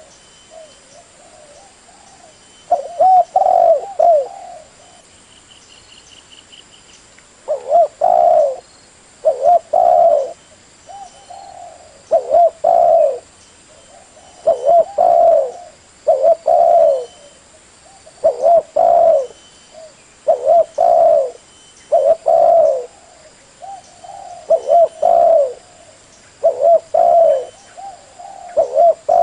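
Spotted dove cooing: short groups of low coo notes repeated over and over, one group every second or two. A brief high trill comes about six seconds in.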